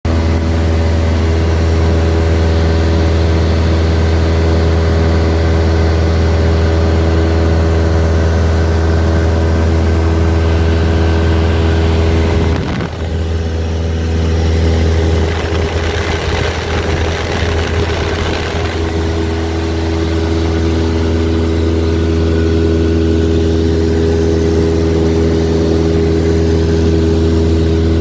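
Cessna light aircraft's piston engine and propeller droning steadily in flight, a deep constant hum with a steady stack of tones above it. About halfway through the sound dips briefly, then a rushing noise rides over it for a few seconds before the even drone returns.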